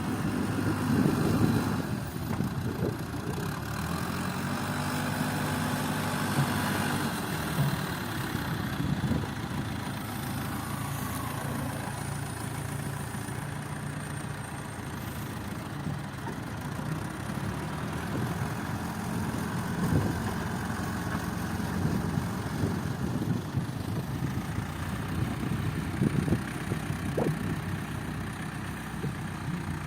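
Heavy diesel engine of an earth-moving machine running steadily, its pitch shifting a few times in the first several seconds, with an occasional knock or clank from the machine working.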